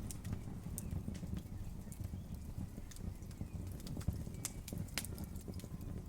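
Campfire burning: irregular sharp pops and snaps of burning wood over a steady low rumble, with two louder cracks near the end.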